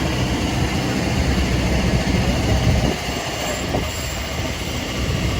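Train running on rails: a steady rumble and rush of noise.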